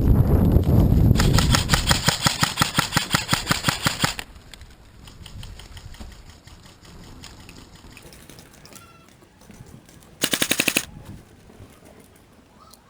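Airsoft gun firing full-auto: a rapid burst of about three seconds, then a short burst of under a second near the end. Wind buffets the microphone at the start.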